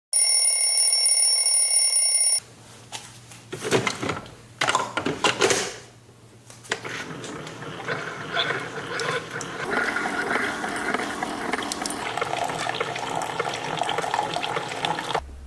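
A loud electronic alarm rings steadily for about two seconds and cuts off suddenly. Irregular clatter follows, then a steady run of water or liquid for most of the rest.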